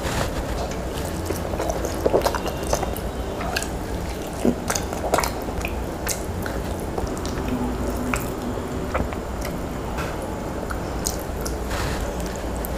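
Close-miked wet chewing and lip smacking of a person eating curry-soaked mutton fat and rice by hand, with many short, sharp moist clicks scattered throughout.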